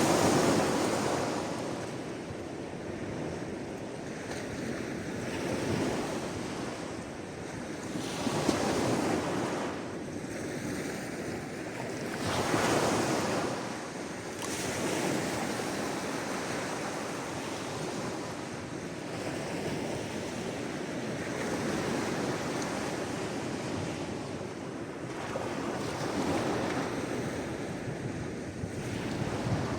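Sea waves breaking and washing in, one surge every few seconds, the strongest right at the start and about twelve seconds in, over a steady rush of surf.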